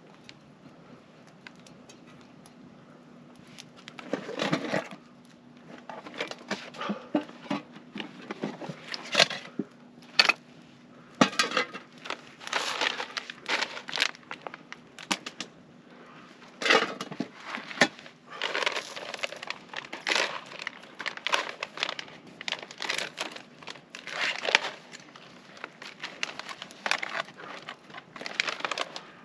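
Foil pouch of a freeze-dried meal crinkling and rustling in irregular bursts as it is opened and handled.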